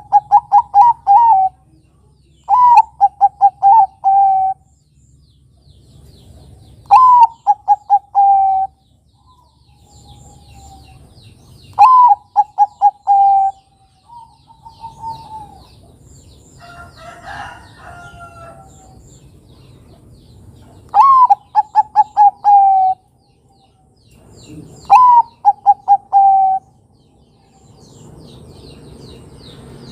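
Zebra dove (perkutut Bangkok) singing: repeated phrases of a rising first note followed by a quick run of short coos, about six phrases with pauses between them.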